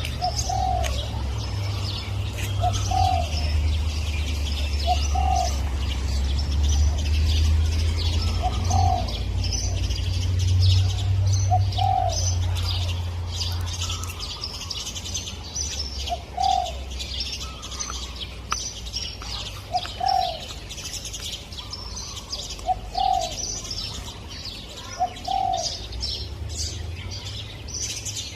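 Spotted dove cooing, a short low note repeated about every two seconds, over a dense chorus of high chirping from other small birds. A low rumble runs under the first half.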